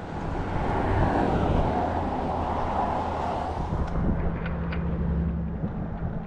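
A motor vehicle passing: a broad rush of engine and road noise that swells over the first few seconds and falls away about four seconds in, leaving a steady low hum.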